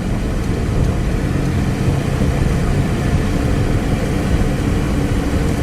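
Steady road and engine noise of a moving car, heard from inside the cabin: a continuous low rumble, with a faint steady engine hum coming in about three seconds in.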